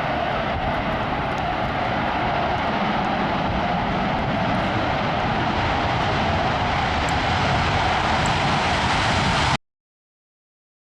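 Blue Angels jet aircraft engine noise, a loud steady roar that slowly grows louder, then cuts off suddenly near the end.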